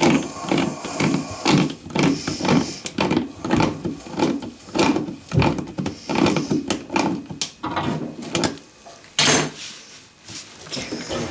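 Nuts being cranked down on the toilet flange's anchor bolts with a hand tool: a rapid, uneven run of short metallic clicks and knocks, with one louder clack about nine seconds in.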